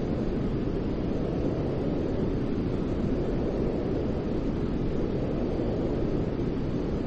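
Steady, unchanging low rumbling noise played to soothe a crying baby to sleep, deeper than true white noise, with only a soft hiss on top.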